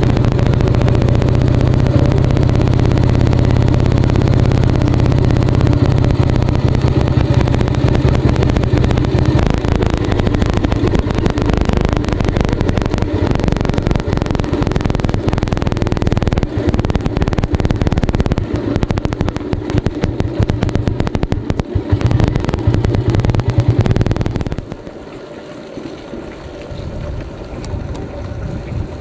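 Royal Enfield Bullet 350's cast-iron, air-cooled single-cylinder engine running loud and steady under riding, its note getting rougher and more uneven after about ten seconds. About twenty-five seconds in, it drops to a much quieter sound.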